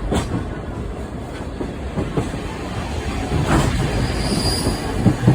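Sightseeing trolley train's carriage rolling along the rails: a steady rumble with scattered wheel-on-rail knocks, a louder one about three and a half seconds in and another near the end.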